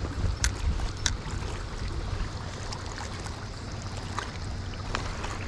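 Wind buffeting the microphone with a low rumble over the steady rush of river current, with a few faint sharp clicks.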